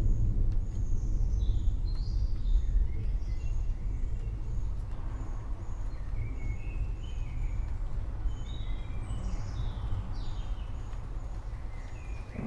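A low rumble of distant thunder dying away, with small birds chirping repeatedly over it.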